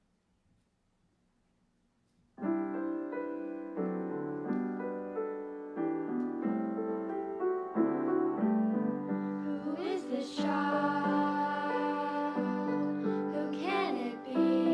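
Near silence, then about two seconds in a piano starts playing slow, held chords as a song introduction; from about ten seconds in, a wavering higher melody line joins above it.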